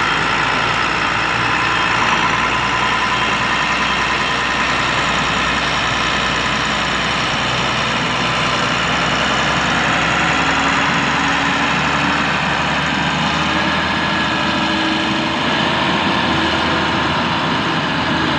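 Kirloskar 6R1080TA turbocharged six-cylinder diesel engine of a DOZCO motor grader running steadily at a low, even speed, with a faint steady whine joining about halfway through.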